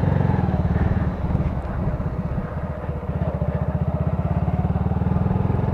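Honda Grom's small single-cylinder four-stroke engine running under way, a fast, even pulsing exhaust note that eases off slightly in the middle and then picks back up.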